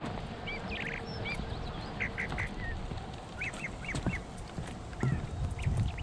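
Birds calling outdoors: short calls in quick groups of three or four, repeated a few times, over a low rumble of wind or handling.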